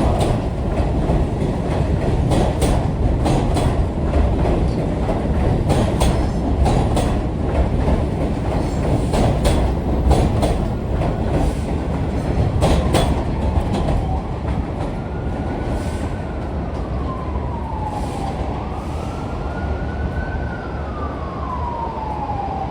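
N train departing: a steady rumble with wheels clicking over the rail joints, easing off in the second half. From about two-thirds of the way in, a siren's slow wail rises and falls over the train noise.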